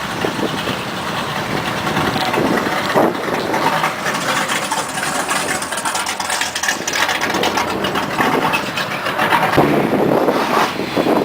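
A car engine running loudly and steadily, with a rough, rapid pulsing through its noise.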